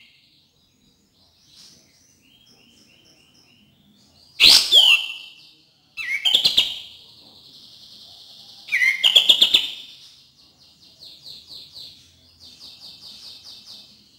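Kapas tembak songbird singing: three loud calls with sharp downward sweeps, with softer repeated notes between and fast chattering trills near the end. It is a lure song recording used to stimulate caged birds that are slow to sing.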